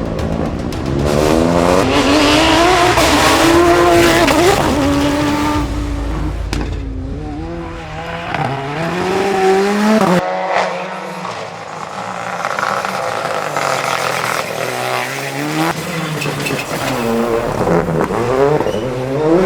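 Rally cars driven hard on a stage. The engines rev up through the gears, with the pitch climbing and falling back at each shift. The sound drops away sharply about ten seconds in, then builds again with more revving near the end.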